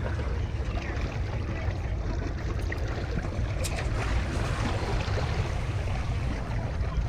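Steady rush of wind and sea water, with wind rumbling on the microphone.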